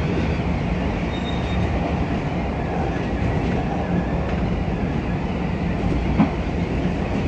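Toei 10-000 series electric train running along the line, heard from inside the driver's cab: a steady rumble of wheels on rail, with a single sharp click about six seconds in.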